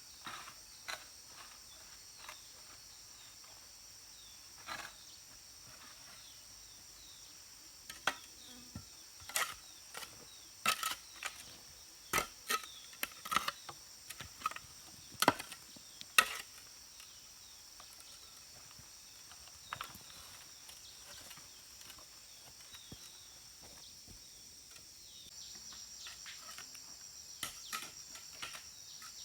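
Steady high chirring of insects, with a run of about a dozen irregular sharp knocks in the middle of it, close together over some eight seconds.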